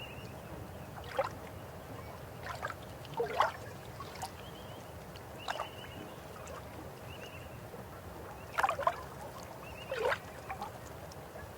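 A river or stream flowing with a steady low rush, and irregular gurgling plops of water, each sweeping quickly up in pitch, about eight times. Short, high, rapid trills, like a small bird's call, come four or five times.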